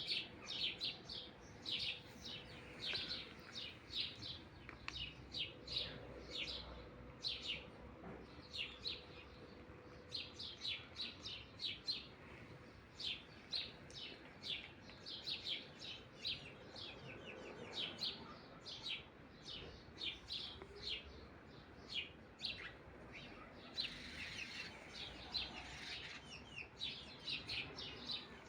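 Small birds chirping, a rapid run of short, high chirps that goes on almost without a break.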